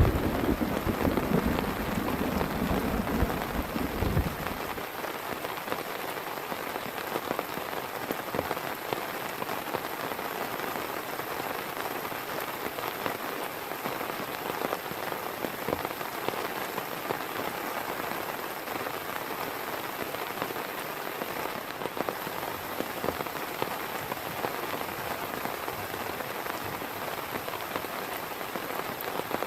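Heavy rain falling steadily, with many single drops ticking through it. A low rumble of thunder dies away in the first four seconds or so.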